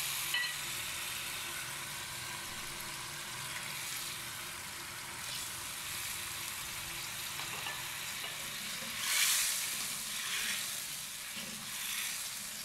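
Tomato-and-onion masala paste sizzling in hot oil in an aluminium pot as a metal spoon stirs through it. The hiss is steady, with a few louder swells in the last few seconds as it is stirred.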